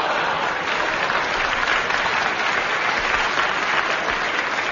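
Studio audience applauding, a dense, steady clapping that tapers off near the end.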